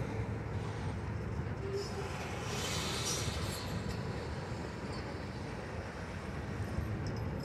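Autorack freight cars rolling through a rail yard with a steady low rumble, and a brief hiss a little under halfway through.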